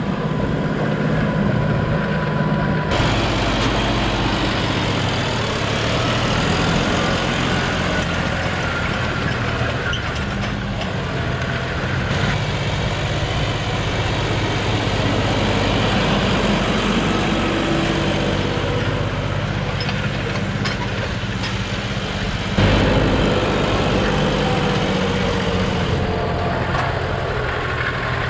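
John Deere 5405 tractor's common-rail diesel engine running steadily, with a sudden step up in level about two-thirds of the way through.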